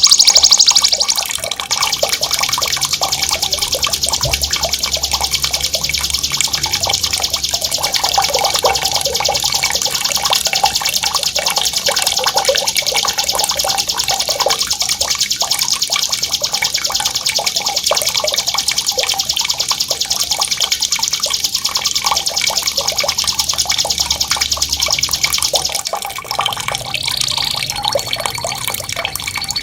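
A songbird's long, unbroken, very rapid high trill (a rolling 'ngerol' song) over the patter of running water. About 26 seconds in, the trill stops and shorter whistled notes follow.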